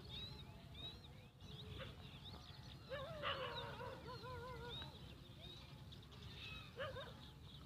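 Faint background bird chirps and calls over a low steady hum, with a longer wavering call about three seconds in.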